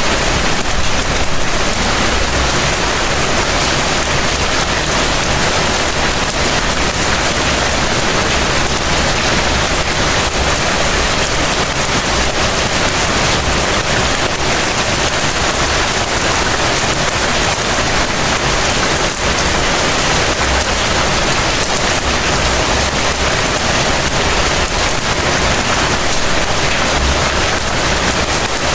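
Heavy rain falling as a steady, dense hiss of rain on surfaces.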